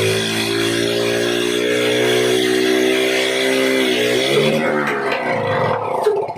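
Old motorcycle engine running at a steady speed, then slowing and faltering about four seconds in, its note dropping and breaking up before it dies away near the end.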